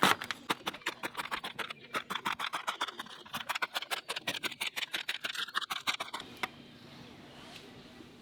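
Rapid run of sharp taps, about eight a second, that stops about six and a half seconds in.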